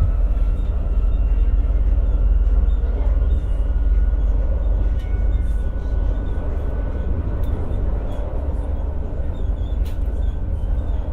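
Interior running noise of an X60 (Alstom Coradia Nordic) electric multiple unit at speed: a steady heavy rumble from wheels and track, with a faint steady whine from the traction drive above it.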